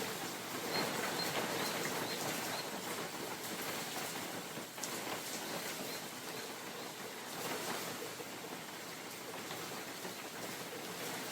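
Rain falling in a forest with wind moving through the trees: a steady hiss that swells and eases, with scattered drop ticks. A run of short, high chirping notes sounds in the first few seconds.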